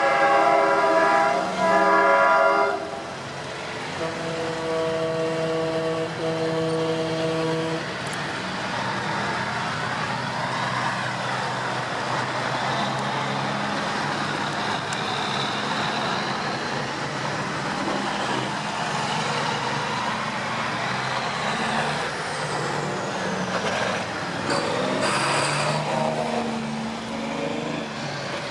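Semi-truck air horns sounding in long chords, one ending a couple of seconds in and another from about 4 to 8 seconds, then the steady noise of trucks running in the convoy with a few short horn toots near the end.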